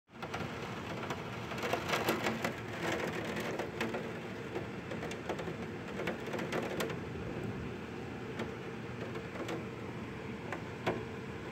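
Heavy rain falling: a steady hiss dotted with many sharp drop ticks, a little heavier about two seconds in.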